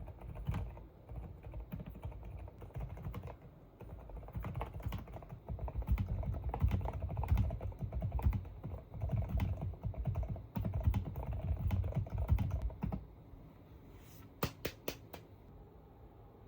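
Typing on a computer keyboard: rapid, continuous keystrokes with deep thuds for most of the time, then a few separate sharp clicks near the end.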